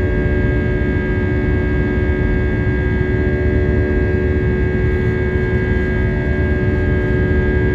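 Airbus A320's twin IAE V2527-A5 turbofan engines heard from inside the cabin during takeoff: a steady drone of low rumble with several constant tones over it.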